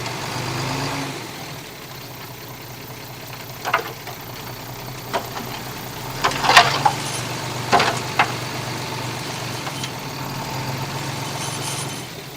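Bulldozer's diesel engine running steadily at low revs, with scattered sharp clanks; the loudest cluster comes a little past the middle.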